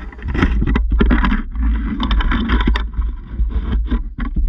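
Mini bike under way, heard through a camera mounted on its front: heavy wind buffeting on the microphone over the running bike, with frequent knocks and rattles.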